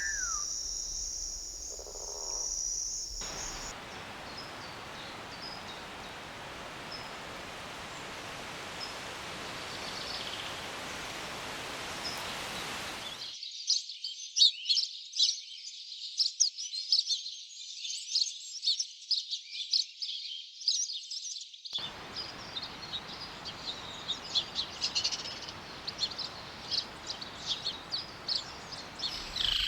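Birds chirping in rapid, short, high notes over a steady background hiss. About halfway in, the hiss cuts out and the chirping becomes loud and dense. The hiss returns with the chirps continuing.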